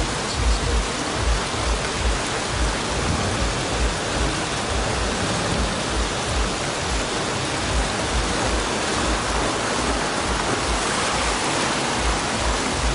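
Heavy rain and rushing floodwater on a flooded street: a loud, steady wash of noise with low, uneven buffeting thumps underneath.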